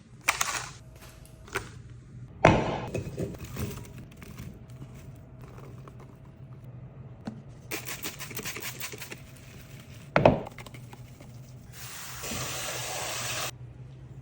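Kitchen handling sounds: several sharp knocks and clatters as containers and utensils are handled on a counter. Near the end comes about a second and a half of steady rushing noise.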